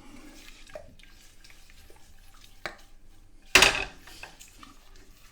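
A spoon stirring custard powder, sugar and a little milk into a smooth paste in a saucepan, with light clicks of the spoon against the pan and one louder knock about three and a half seconds in.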